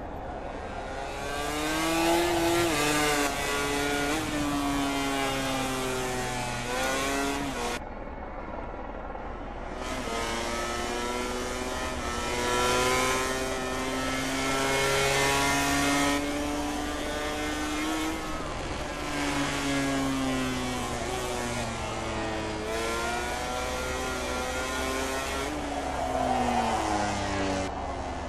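MotoGP race motorcycle engines, 1000 cc four-stroke four-cylinders, running at racing speed: the pitch climbs in steps as the rider shifts up, then drops back in quick steps on the downshifts into corners, several times over.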